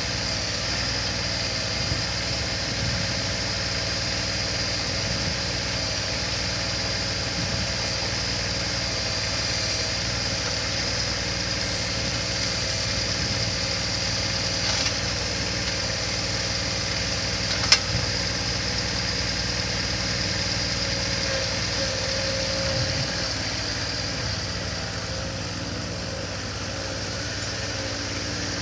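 Yanmar SA424 mini loader backhoe's diesel engine idling steadily, with a single sharp click a little past the middle.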